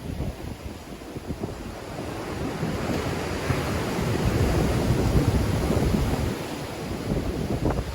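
Sea waves breaking and washing on the shore in a strong wind, with wind buffeting the microphone in low rumbles. The surf swells over the first few seconds, peaks in the middle, then eases.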